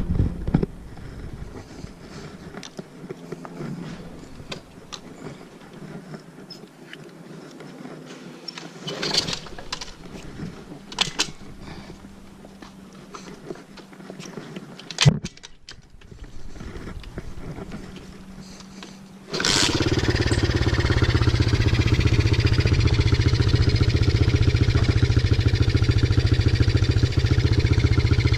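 Scattered clicks and knocks, with one sharp knock about halfway through. Then, about two-thirds of the way in, a 50cc pit bike engine starts suddenly and runs steadily with a rapid pulse.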